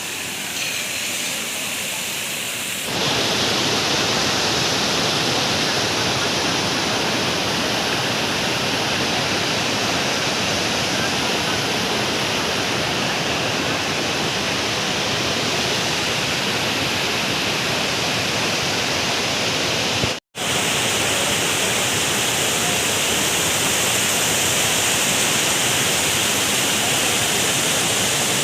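Waterfall rushing as a steady, dense roar of water, growing louder about three seconds in. It cuts out for a split second about twenty seconds in.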